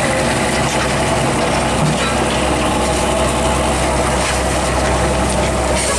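Heavy truck engine running steadily at idle, a constant low hum.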